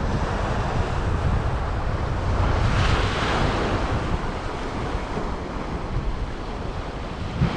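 Small Chesapeake Bay waves washing onto the beach, one swelling and breaking about three seconds in, with wind rumbling on the microphone.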